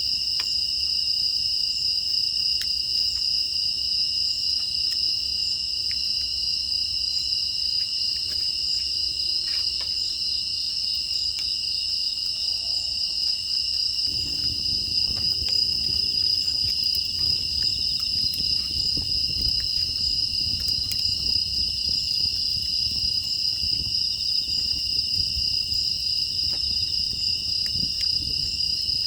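A chorus of grass insects chirring steadily in a high, unbroken drone. Faint scattered clicks run underneath, and a low rumble comes up about halfway through.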